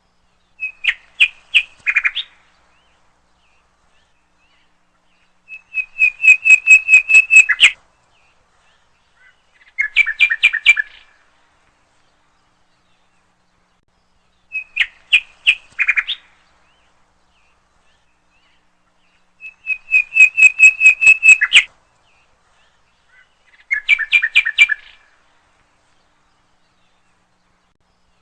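A songbird singing: six short phrases of rapid chirping notes, each one to two seconds long, separated by silence. The phrases come in three kinds that repeat in the same order about every 14 seconds.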